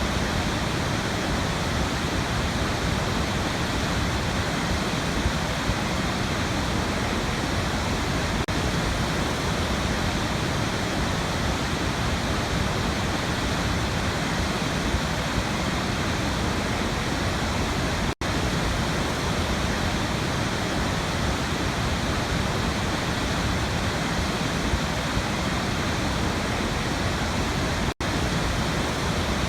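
Waterfall rushing in a steady, unbroken roar of falling water, cut twice by a split-second dropout in the audio, about two-thirds of the way through and near the end.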